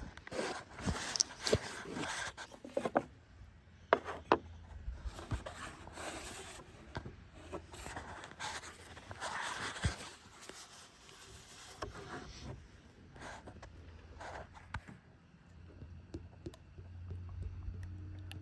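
Hands working with tools and parts: irregular scraping and rubbing with many sharp clicks and knocks, thinning out near the end to a low steady hum.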